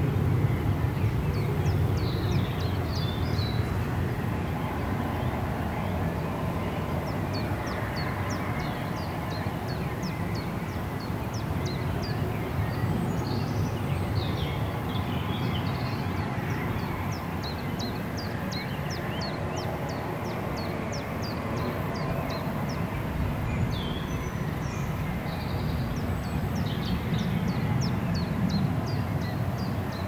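Songbirds singing in phrases of a few seconds, each a quick run of short, high, falling notes, repeated several times. A steady low rumble runs underneath.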